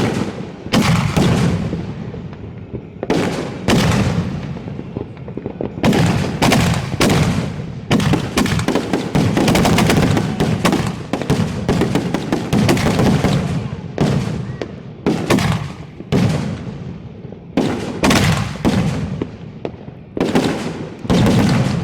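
Fireworks finale barrage heard up close: a rapid, unbroken string of sharp cracks and booms from shells going off one after another, densest in the middle.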